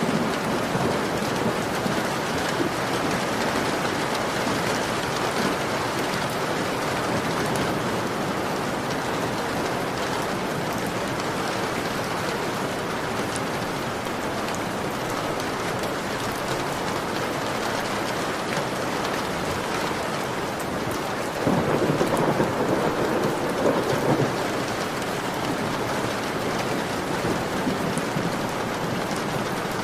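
Heavy rain beating steadily on a window pane. About two-thirds of the way through, a louder low rumble swells for a few seconds and then fades.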